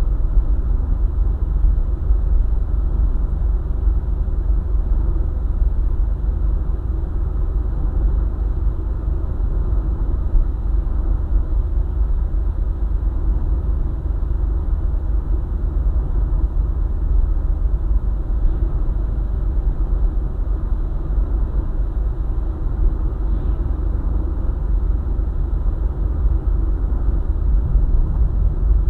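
Car driving steadily along a highway: a constant low rumble of tyres on the road and engine.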